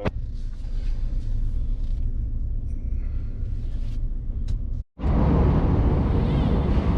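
A vehicle's engine runs with a steady low rumble. It cuts out abruptly about five seconds in and comes back louder, with a rising whine near the end.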